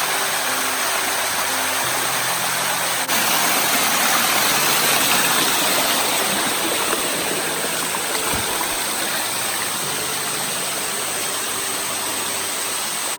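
Water rushing steadily down a waterfall. It gets a little louder suddenly about three seconds in.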